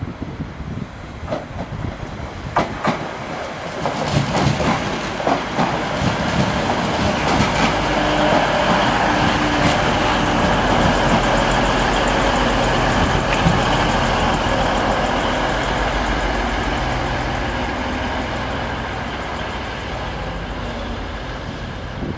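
Diesel multiple-unit passenger train approaching and passing close by, its engine note and wheel-on-rail noise building to a peak midway and then slowly fading. Sharp clicks of the wheels over rail joints come in the first few seconds.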